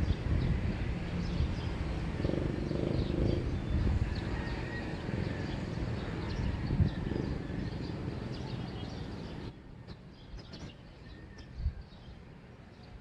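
Morning outdoor ambience: small birds chirping faintly over a low, uneven rumble, which drops away abruptly about nine and a half seconds in, leaving the quieter chirps.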